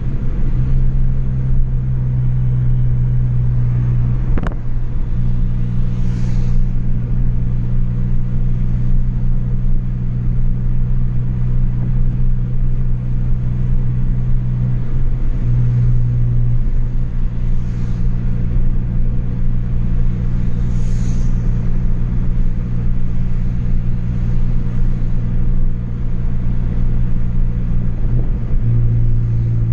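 Chevrolet Astra 2.0 four-cylinder engine with a straight-through exhaust, droning steadily while cruising, its pitch stepping a few times with changes in speed or gear. A single sharp click about four seconds in.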